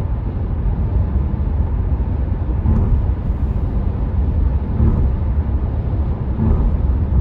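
Steady low road, tyre and wind noise of a 2019 Renault Megane 4 1.5 dCi diesel cruising at motorway speed, heard from inside the cabin.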